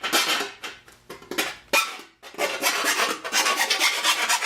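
A hand file rasping as burrs are filed off, settling into quick, even back-and-forth strokes a little over two seconds in; before that come a few separate scrapes.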